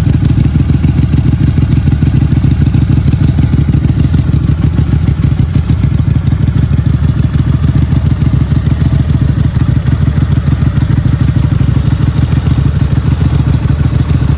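QJ Motor SRV 250's 249 cc V-twin running at a steady idle through its stock twin exhaust, a deep, even pulsing note with no revving. Even the standard exhaust note is rough.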